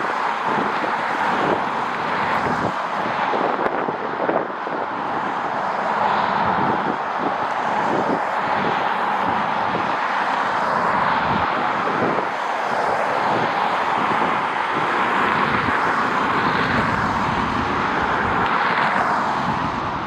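Steady roar of a jet airliner's engines, with gusty wind buffeting the microphone.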